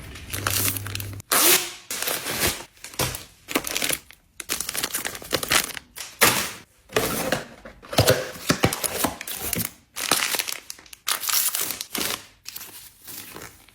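Plastic packaging crinkling and rustling, with scattered sharp knocks and thunks as items are handled and set down.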